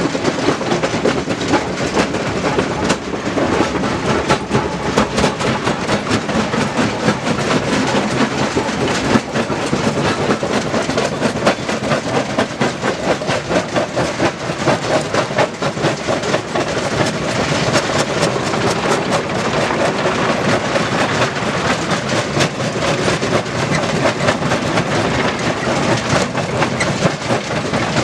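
Stone crusher running, with a dense, continuous clatter of rock being broken and tumbling through the machine.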